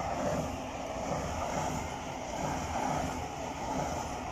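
LNER passenger train running past in the cutting below, a steady rushing rumble with no sudden events.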